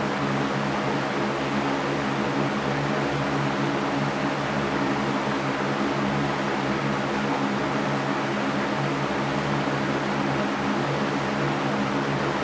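Electric fan running steadily: an even whooshing hiss over a constant motor hum.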